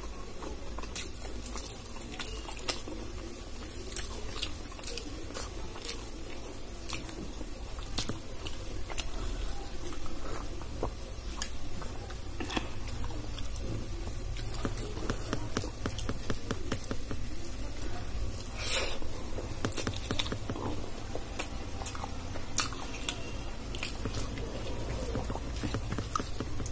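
Close-miked chewing and wet mouth clicks of a person eating dal and rice, with a steady low hum underneath. Fingers squish rice and dal together on a steel plate near the end.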